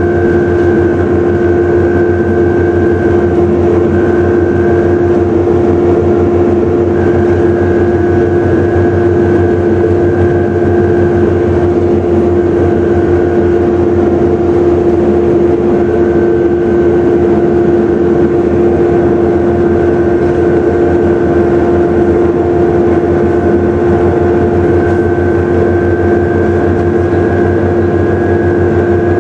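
Volvo B7TL double-decker bus heard from on board: its diesel engine runs steadily under a loud, constant hoover-like whine. A higher whine fades in and out several times.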